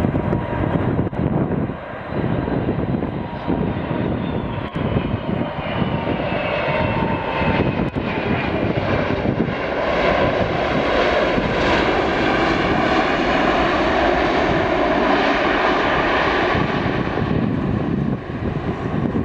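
Jet airliner on landing approach flying low past: a whine whose tones fall in pitch as it passes, with the engine noise building to its loudest in the second half and easing off near the end.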